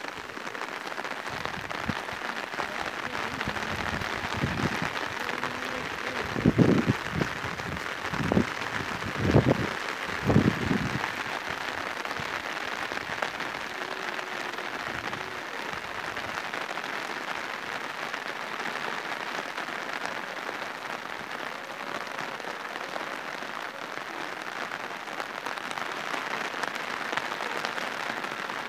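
Steady rainfall hissing on surfaces. A handful of short, low thuds sound between about six and eleven seconds in.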